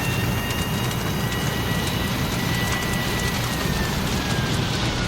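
Steady, dense background ambience with a deep rumble, over which a faint high tone holds and then slowly falls in pitch through the second half.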